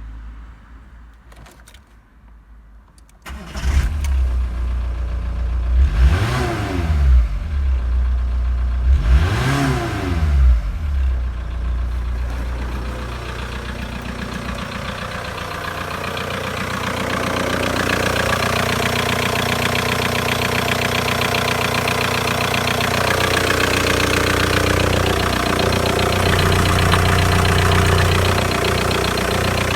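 VW 1.9 SDI (AYQ) naturally aspirated four-cylinder diesel engine starting about three seconds in, revved up and down twice, then idling steadily.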